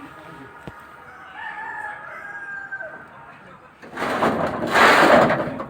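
A rooster crows once, one long call starting about a second in. About four seconds in, a much louder burst of harsh noise of unclear source takes over.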